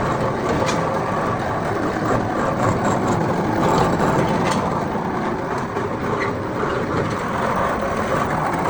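Steady workshop machinery noise with a few faint clicks.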